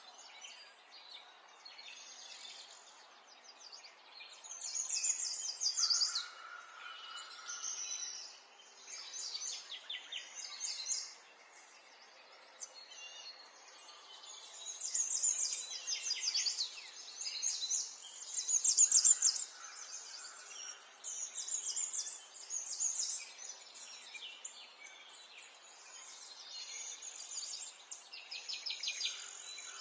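Several songbirds singing and chirping in repeated trilled phrases, in bouts every few seconds, over a faint background hiss.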